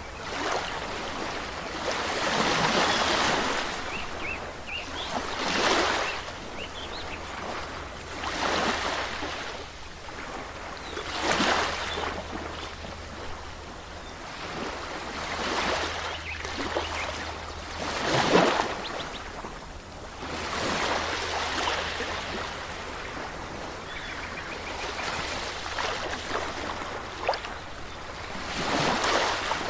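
Ocean waves breaking on a shore, swelling and falling away every few seconds.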